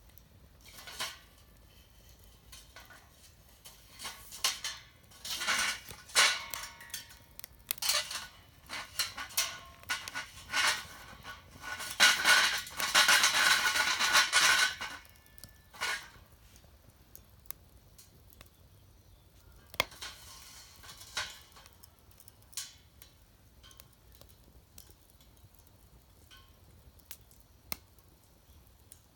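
Metal clattering and clinking as hard objects are handled and knocked together, busiest in a loud stretch about halfway through, then only occasional clicks.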